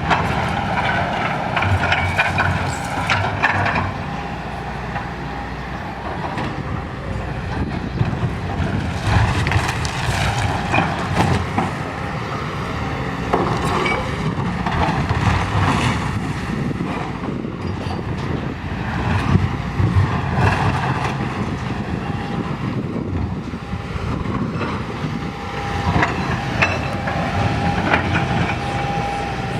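Steady rumble of a heavy vehicle or machine running, with scattered knocks and clatter throughout.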